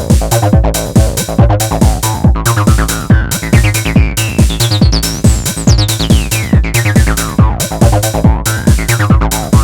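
Trance-style electronic music played on the Tone2 Icarus 3 software synthesizer from one of its factory presets. A pulsing bass sequence drives a steady beat of about four strokes a second, while high synth tones glide up and down in pitch.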